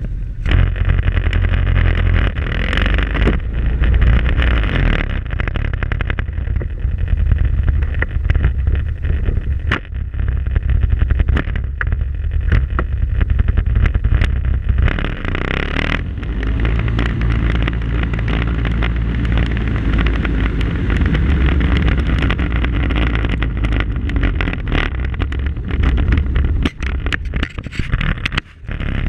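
A Polaris off-road vehicle driving over rough ground, heard through a GoPro mounted on its front: a heavy, steady low rumble of engine and drivetrain, with frequent short knocks and rattles from the bumps. The sound is harsh and unpleasant on the recording, which the uploader calls awful.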